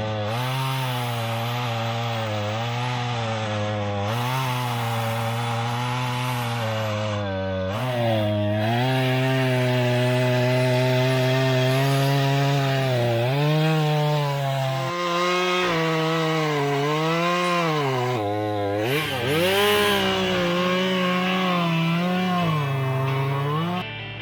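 Two-stroke gas chainsaw cutting up a large fallen tree, its engine pitch sagging as the chain bites into the wood and rising again between cuts, over and over. It gets louder from about eight seconds in.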